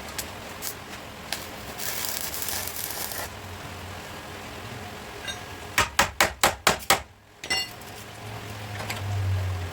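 Body hammer striking a car's sheet-metal panel in a quick run of about seven sharp blows, then one more a moment later. A short hiss comes a few seconds before the blows.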